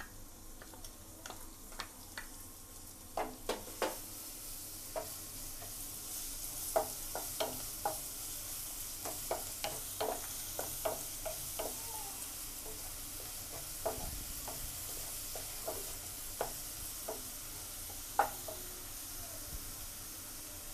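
Finely chopped garlic and ginger sizzling in hot oil in a nonstick pan, the sizzle growing louder a few seconds in. A wooden spatula stirs them, with frequent light taps and scrapes against the pan.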